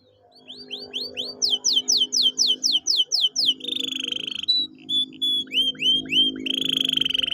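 Domestic canary singing. The song fades in with a run of quick down-slurred whistled notes, about five a second, then breaks twice into a fast buzzing roll. Soft background music with held low notes plays underneath.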